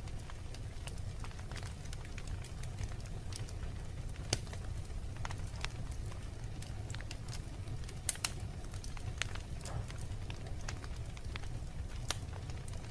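Wood fire burning in a fireplace: irregular sharp crackles and pops over a steady low rumble. The loudest pops come a little past four seconds, as a quick pair around eight seconds, and again about twelve seconds in.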